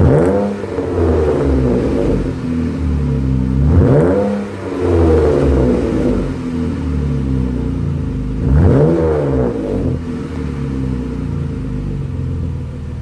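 Jeep Grand Cherokee's 3.6-litre V6 idling through an aftermarket Borla exhaust, blipped three times: right at the start, about four seconds in, and near nine seconds, each rev climbing and dropping back to idle.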